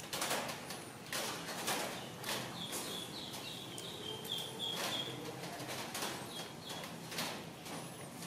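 A bird repeats a short, high chirp about a dozen times in quick succession, with a few other faint chirps around it, over scattered sharp clicks and rustles.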